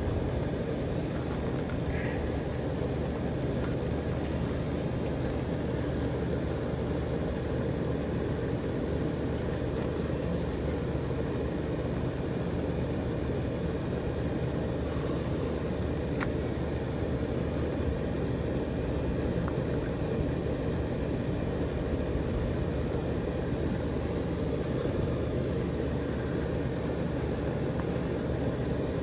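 Steady low background noise with no distinct pitch or rhythm, and one faint click about halfway through.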